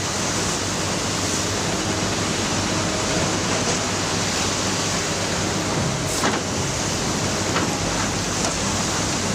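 Heavy excavator running steadily under work, a dense mechanical rumble and hiss, with a sharp knock about six seconds in, typical of the bucket handling rock.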